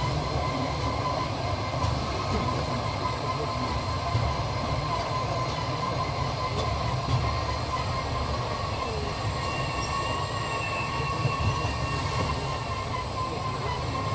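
Train running on the rails, heard from on board: a steady low rumble of the wheels, with a high-pitched wheel squeal that swells louder near the end.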